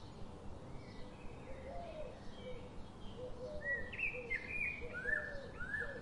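Small birds chirping: a cluster of short, sliding chirps in the second half, with softer low notes repeating throughout over a steady background hiss.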